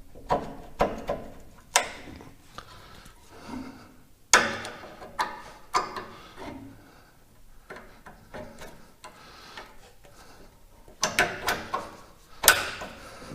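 Hydraulic hose quick-couplers being pushed together and the hoses handled: a series of sharp clicks and knocks, with a cluster of them near the end.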